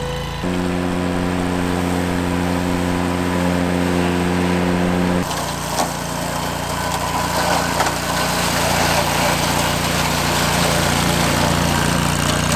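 Ventrac compact tractor engine running steadily. The sound changes abruptly about half a second in and again about five seconds in; the later part is noisier, with a few knocks.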